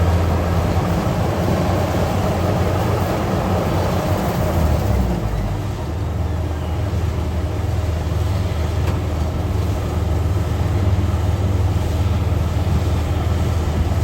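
Rice combine harvester's diesel engine running steadily under working load, with a low hum that dips briefly about halfway through.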